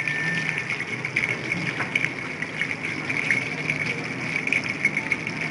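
Chicken lollipops deep-frying in hot oil: a steady sizzle full of small crackles.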